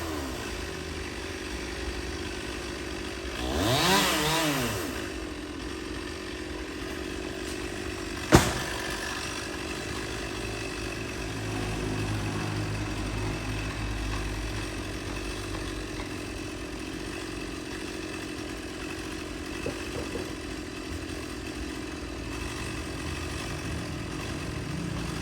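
Stihl chainsaw idling, blipped up to a brief rev about four seconds in and dropping back. A single sharp knock a few seconds later.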